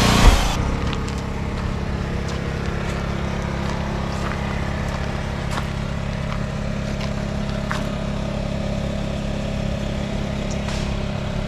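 A loud hiss cuts off with a thump just after the start, leaving an engine running steadily at idle, with a few faint clicks.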